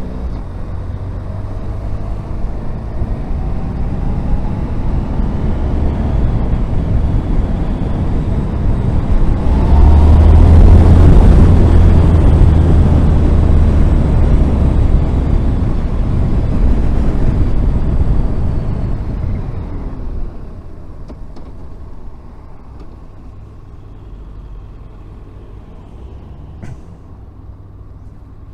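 Riding noise from a Honda VFR1200F motorcycle in traffic: engine and wind rush that builds to its loudest about a third of the way in, then drops off sharply about two-thirds through.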